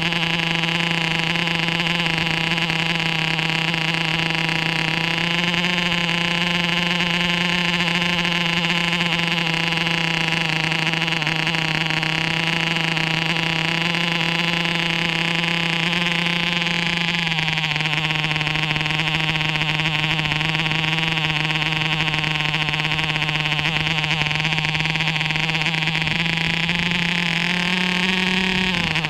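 MARZ 2.5 cc (.15 cu in) diesel model airplane engine running steadily at part throttle with a high, buzzing note. About two-thirds through its speed drops slightly, it picks up a little near the end, then the pitch falls sharply as it starts to die from running out of fuel.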